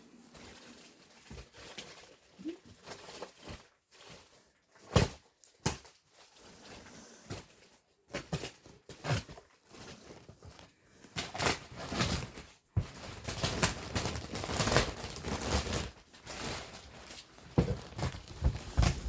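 A 3D printer's shipping box and packaging being opened and handled: scattered knocks and thunks, then a longer stretch of rustling and crinkling in the second half.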